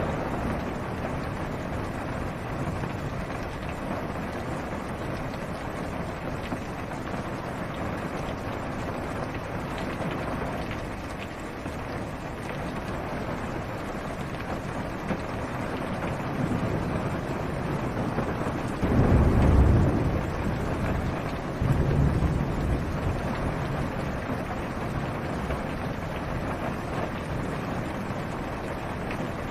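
Steady rain falling on a car's roof and windshield, heard from inside the car. About two-thirds of the way in come two low rumbles of thunder, a few seconds apart.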